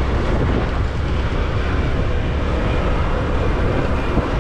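Steady rumble of a motorbike on the move, engine and road noise mixed with wind on the microphone.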